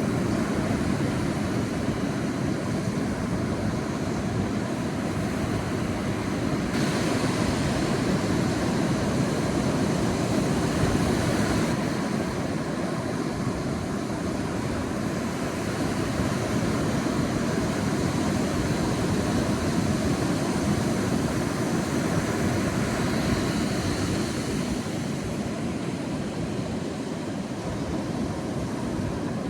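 Sea surf washing onto a beach, a continuous wash with no distinct breaks, brightening slightly for a few seconds about seven seconds in.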